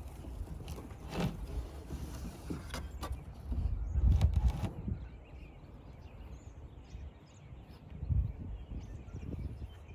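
Wind buffeting the microphone in gusts, a low rumble that is strongest about four seconds in and again near the end, with a few brief knocks.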